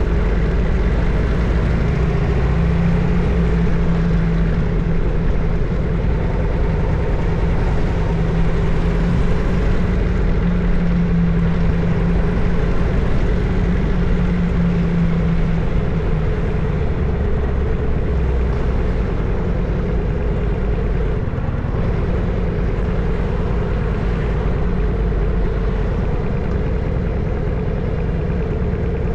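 Harley-Davidson Evolution (EVO) 1340 cc air-cooled V-twin running loud and steady while riding, a deep low rumble whose note drops lower about halfway through.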